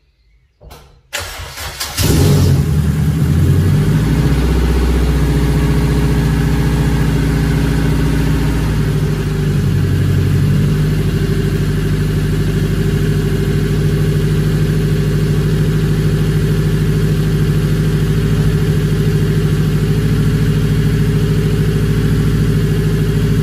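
Turbocharged Honda K20 four-cylinder engine in an EK Civic making its first start after the build: it cranks for about a second, catches about two seconds in, and settles into a steady idle, which shifts slightly around ten seconds in.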